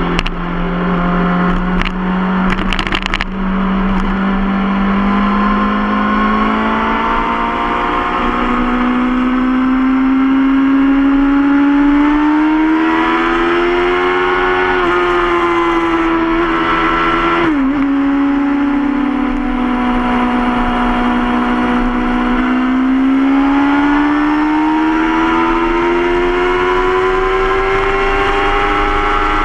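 Suzuki GSX-R sport bike's inline-four engine running under way, its pitch climbing and easing steadily as it pulls and holds speed, with a brief sharp dip about two-thirds of the way through.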